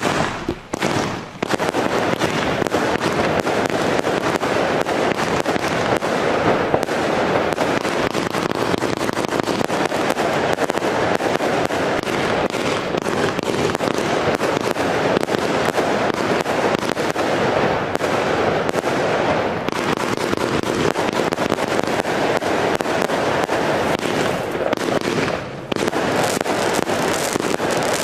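Alpha Fireworks Vortex 200-shot cake with 20 mm tubes firing a rapid, continuous barrage of shots. After a first few shots there is a short gap, then it goes on without a break, with a brief lull near the end.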